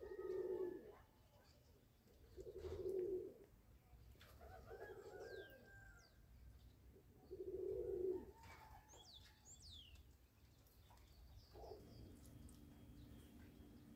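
Faint bird calls: four short, low notes about two and a half seconds apart, with a few thin, high chirps between them.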